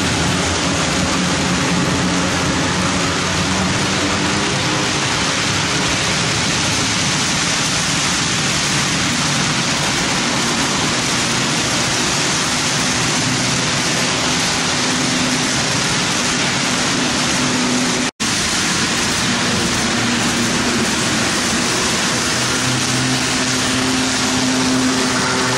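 HO-scale model freight train running on the layout: a steady rushing noise of wheels on track with a low motor hum that shifts slightly in pitch. The sound cuts out for an instant about 18 seconds in, then resumes.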